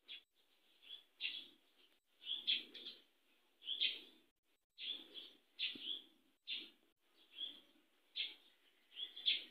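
A bird chirping faintly and repeatedly, in short separate calls about once a second.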